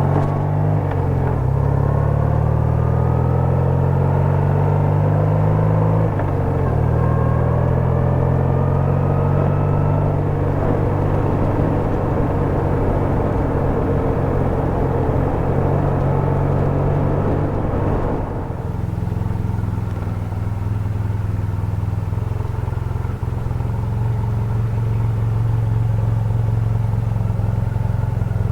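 BMW R100RS air-cooled flat-twin boxer engine pulling the bike along. Its note steps up and rises through the gears over the first several seconds, then drops to a lower, steadier beat about two-thirds of the way through.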